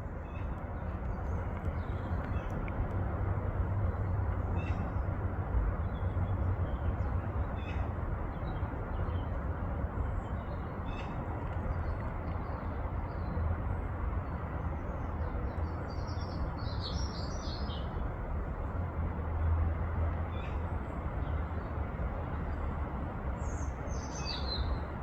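Small birds chirping now and then over a steady low rushing background noise, with a longer run of chirps about two-thirds of the way in and another near the end.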